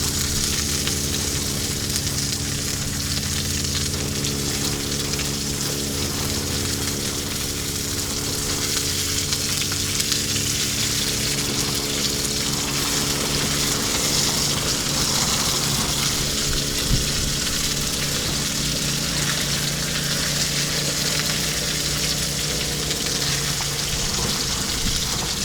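Salmon frying in a pan, sizzling steadily, with a steady low hum underneath that fades out near the end.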